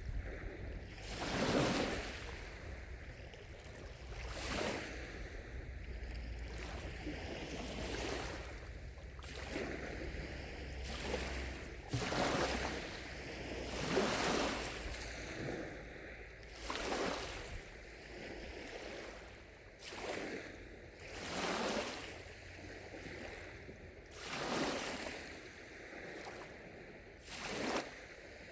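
Small lake waves lapping against the shore, a soft splash or wash every couple of seconds at an uneven pace.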